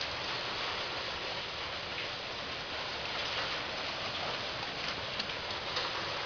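Heavy rain falling steadily, a dense even hiss, with a few sharper ticks near the end.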